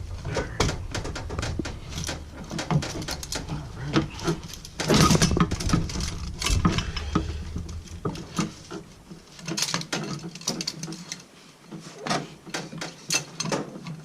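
Irregular knocks, scrapes and clinks of an intake pipe and its hose clamps being worked into place on a turbocharged engine, busiest about five to seven seconds in. A low hum underneath stops about nine seconds in.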